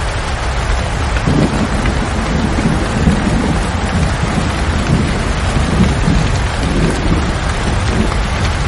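Steady heavy rain, with a long rolling rumble of thunder that starts about a second in and rolls on almost to the end.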